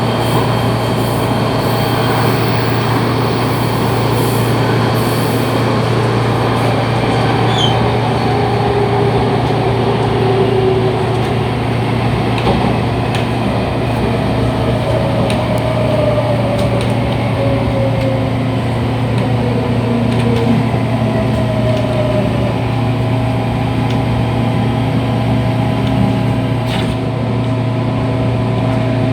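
Running noise heard from inside an MTR Tung Chung line CAF train: a steady low rumble with faint whining tones that slide down in pitch through the middle, and a few light clicks.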